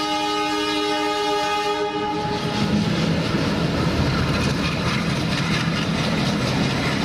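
Train horn sounding one long steady blast that stops about two seconds in, followed by the noisy rumble of the train running past.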